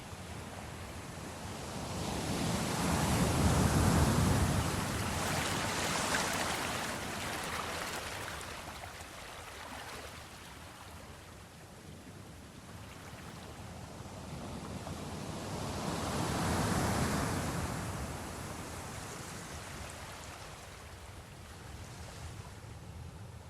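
Sea waves washing in slow surges, swelling and falling away twice: the biggest surge about four seconds in, another around seventeen seconds.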